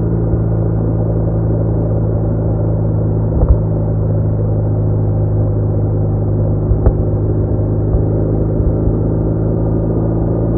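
BMW R1200R flat-twin motorcycle engine running at a steady speed while cruising, a constant engine note with a few short knocks, one about three and a half seconds in and another about seven seconds in.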